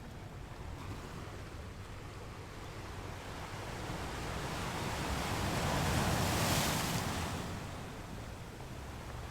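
Ocean surf on a beach: a wave builds, breaks loudest about six seconds in, then washes out and fades.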